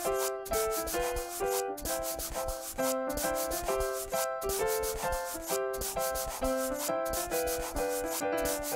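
Felt-tip marker scribbling on paper in rapid back-and-forth strokes, over a light melody of short pitched notes.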